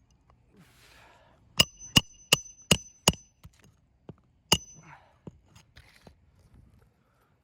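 Roofing nails being driven into a shingle: five sharp strikes in quick succession with a metallic ring, then one more strike a moment later, with some rustling of the shingle around them.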